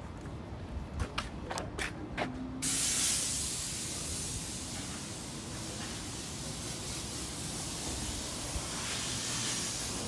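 A few light clicks, then a steady spraying hiss that starts suddenly about two and a half seconds in, runs for about seven and a half seconds and cuts off at the end.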